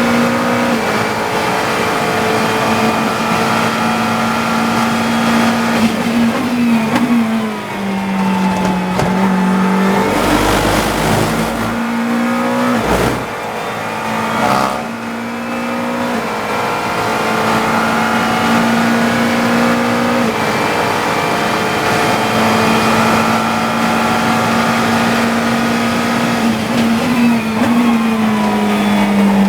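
GT3 race car engine at high revs, heard from the cockpit. The engine note holds steady and steps down in pitch with upshifts about eight seconds in and again near the end. A rough rumble about halfway through is followed by a short thud.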